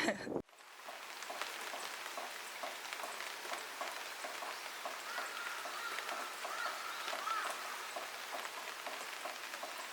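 Steady rain, an even hiss with small drops ticking, beginning abruptly about half a second in.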